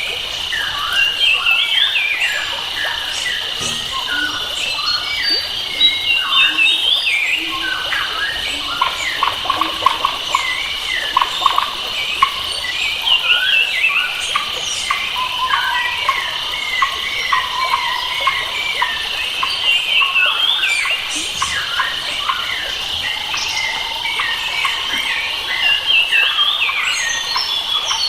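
Forest birdsong: several birds calling and singing in short, overlapping phrases that rise and fall in pitch, over a steady, high insect drone.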